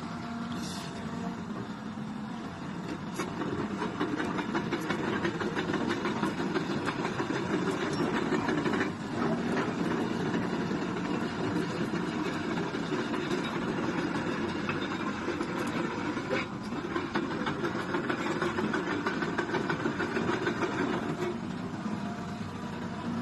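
Hitachi 200 excavator's Isuzu diesel engine running, getting louder a few seconds in and holding steady, with a dense rattle over the rumble.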